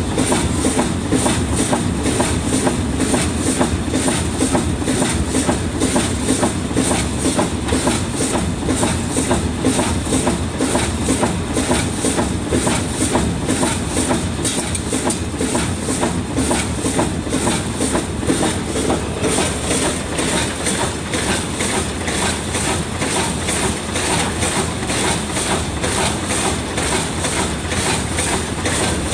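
Vertical form-fill-seal packing machine running continuously, bagging sunflower seeds into pillow bags: a steady rapid mechanical clatter over a constant hum, with a faint high whine.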